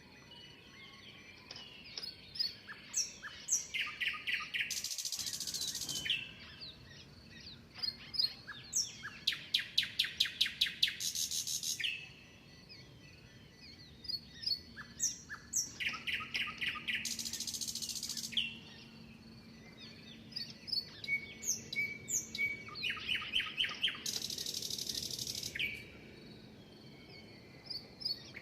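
Several birds chirping and singing: short, quick falling chirps, runs of rapid repeated trill notes, and a brief buzzy hiss that comes back every several seconds.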